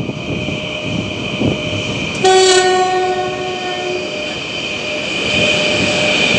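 3ES5K Ermak electric locomotive hauling a freight train, braking as it approaches, with a steady high squeal from the brakes. About two seconds in, the locomotive sounds one horn blast of nearly two seconds. The train noise grows louder near the end as it comes closer.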